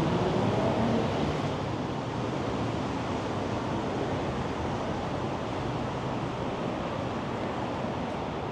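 Wind buffeting the microphone over a steady rush of city street noise, a little louder in the first second or so.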